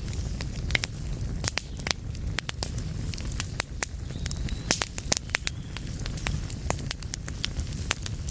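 Wood fire burning in a fireplace, with irregular sharp crackles and pops over a steady low rumble of flames.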